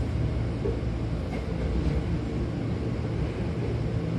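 Hankyu Kyoto Line electric train running, heard from inside the car by the doors: a steady rumble of wheels on the track.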